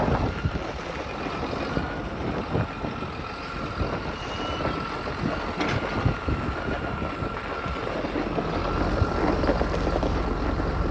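John Deere 7720 tractor's diesel engine running steadily, with a thin, steady high whine over the engine rumble.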